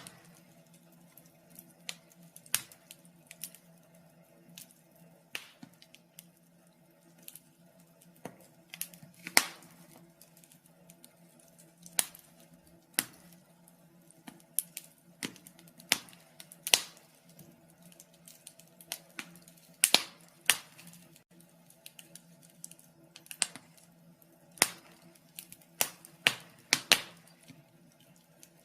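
Wood fire in a fireplace crackling: irregular sharp pops and snaps, some in quick clusters, over a faint steady hum.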